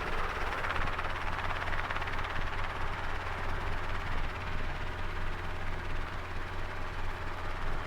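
Helicopter engine and rotor drone heard from inside the cockpit, running steadily during takeoff.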